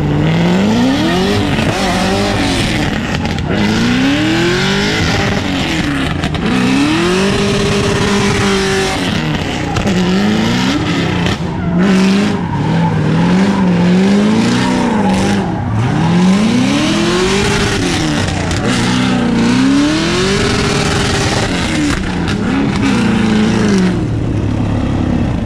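A vehicle engine revving hard, its pitch climbing and falling back over and over about every two seconds, over a steady hiss of tyre or ground noise.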